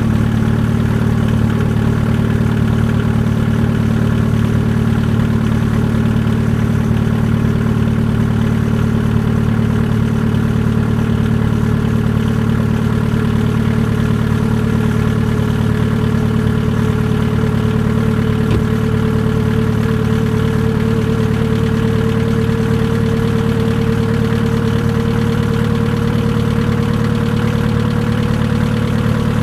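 Volkswagen ALH 1.9 L four-cylinder turbodiesel with a straight-piped exhaust, idling steadily on a cold start in deep sub-zero cold. A thinner whine rides over the engine note and climbs slowly in pitch throughout.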